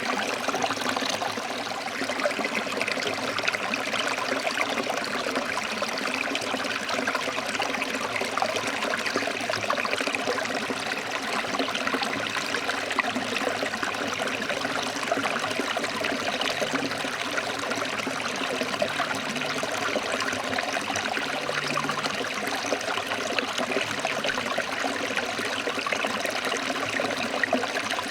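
Stream water flowing and splashing over rocks, a steady even rush.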